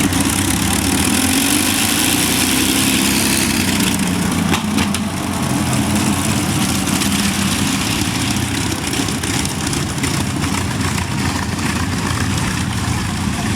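Avro Lancaster bomber's four Rolls-Royce Merlin V12 engines running steadily as the aircraft taxis off, a continuous multi-engine drone that eases slightly about four to five seconds in.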